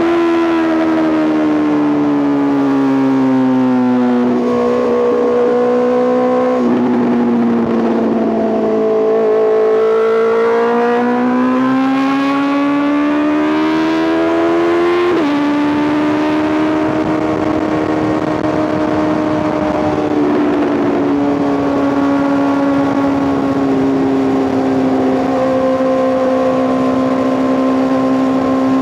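Honda CBR650R inline-four through an Arrow Pro Race titanium full exhaust, ridden with the note sinking and swelling under the throttle. About halfway through the pitch drops sharply, as on a gear change, and the bike then holds a steady cruise.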